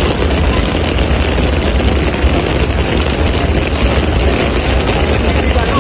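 Steady, loud hiss of heavy rain with a low rumble underneath.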